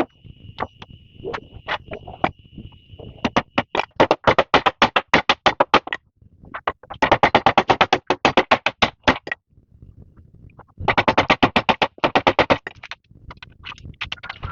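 Frogs calling in loud bursts of rapid, evenly spaced pulses, about seven a second, three bursts of about two seconds each, with an insect's steady high trill that stops a few seconds in.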